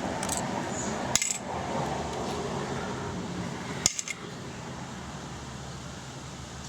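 Metal clutch plates and parts clinking as they are pulled from a 125cc pit bike's clutch: a few short sharp clinks near the start, about a second in and about four seconds in, over a steady low hum.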